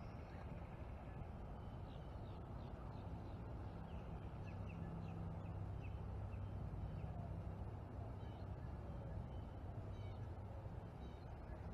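Birds calling: a run of short, sharp chirps in quick succession, strongest in the first half, over a steady low rumble.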